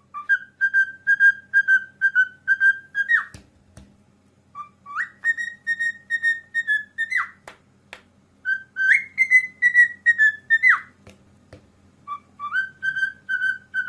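Pet bird whistling: four phrases of quick repeated notes at a steady pitch, about four a second, each phrase ending in a quick slide.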